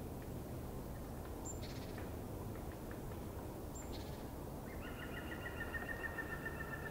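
Wild songbirds: two short, high calls about one and a half and four seconds in, then a rapid trill from about five seconds in, over a steady low background noise.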